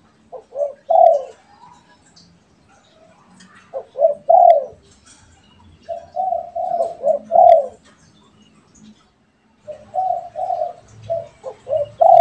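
Spotted doves cooing: four phrases from the pair answering each other. Each phrase is a few short coos ending in a longer, falling coo, with faint chirps of other birds between phrases.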